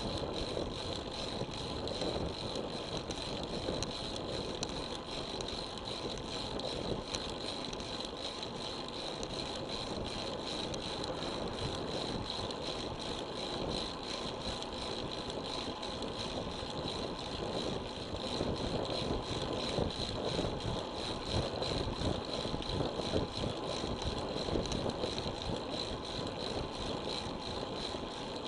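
Road bike in motion recorded on an action camera: a steady rush of road and wind noise with constant fine rattling, over a thin high whine that holds steady.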